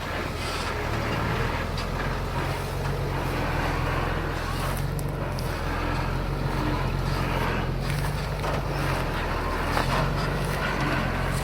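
Heavy diesel engine of earthmoving machinery running steadily, a low drone that holds an even level throughout.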